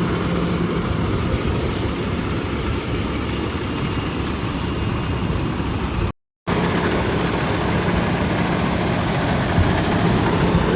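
Semi truck's diesel engine running, a steady drone. The sound cuts out for a split second just past halfway.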